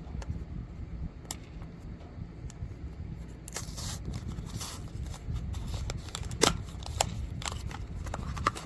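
A small cardboard blind box being torn open by hand and the plastic-wrapped figure inside handled: scattered small clicks and tears at first, then from about three and a half seconds in denser crinkling and rustling of the wrapper. A steady low rumble runs underneath.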